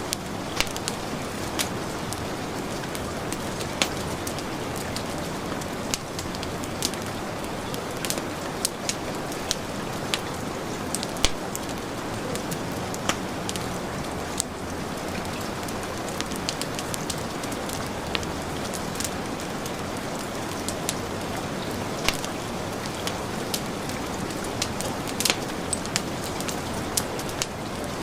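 Heavy rain falling steadily, mixed with a wood fire in a fireplace crackling, its sharp pops and snaps scattered irregularly over the rain.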